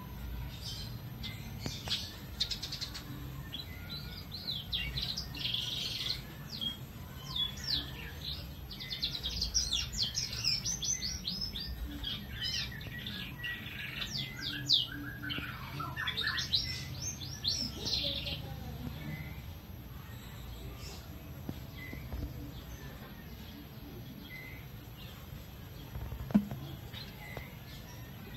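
Small birds chirping in quick runs of short, high, falling notes for most of the first two-thirds, then fading, over a low steady rumble of background noise. A single sharp click sounds near the end.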